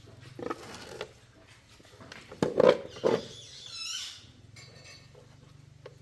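A few sharp knocks and clatter, loudest about halfway through, then a brief wavering high squeak, over a low steady hum.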